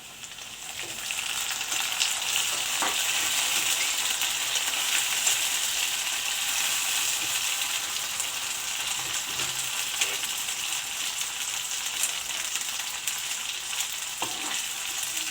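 Chopped tomato and fried onion sizzling in hot oil in a kadhai; the sizzle swells over the first two seconds and then holds steady, with a few light knocks from stirring.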